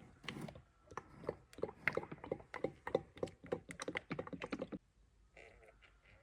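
Motor oil glugging out of a plastic jug into the engine's oil filler, a quick run of gulping pulses, about four or five a second, that stops suddenly near the end.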